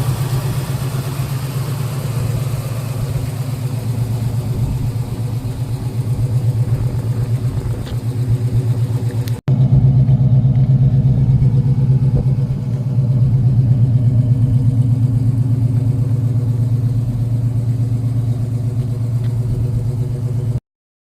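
Chevrolet 350 V8 with long-tube headers and dual exhaust running at a steady, pulsing low rumble. An abrupt break about nine seconds in, and the sound cuts off just before the end.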